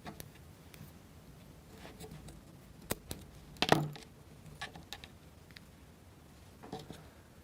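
Plywood model-kit parts being handled: a few light wooden clicks and taps as a rubber band is fitted onto a wooden wheel with a small wooden helper tool, the sharpest about three and four seconds in.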